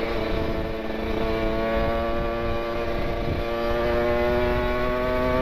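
Kawasaki Ninja 150 RR's two-stroke single-cylinder engine pulling through an R9 aftermarket exhaust, its pitch rising steadily as the bike accelerates in gear, over wind rumble on the microphone.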